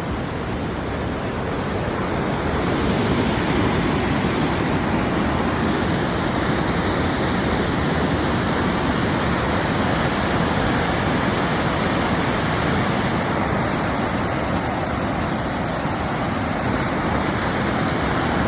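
Waterfall crashing down a drop of a couple hundred feet onto rocks: a loud, steady rushing roar of falling water.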